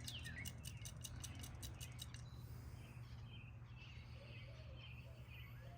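Small birds chirping faintly: a run of quick, falling chirps and a fast trill in the first two seconds, then scattered softer calls, over a steady low hum.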